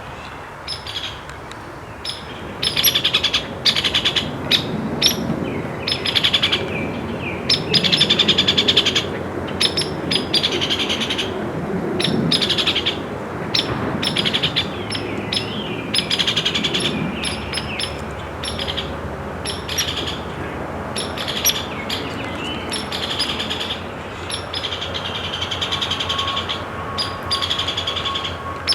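Birds calling in many short, rasping bursts, roughly one a second, over a low background rumble.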